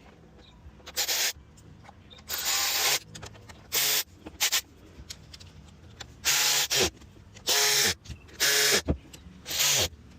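A handheld power tool, such as a power ratchet or driver, run in about eight short bursts, its motor winding down in pitch after several of them.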